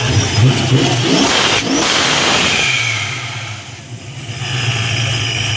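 Supercharged V8 of a 1970s Pontiac Trans Am, with a Torqstorm centrifugal supercharger, revved once about a second in. The supercharger whine falls away as the revs drop, and the engine settles back to idle.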